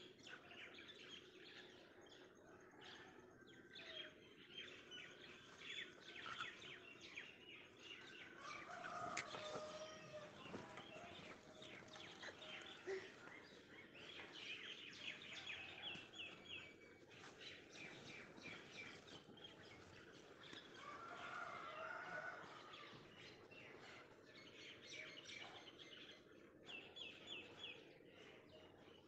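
Small birds chirping and twittering outdoors, with quick trilled runs of notes and a lower, louder call twice, about nine and twenty-two seconds in.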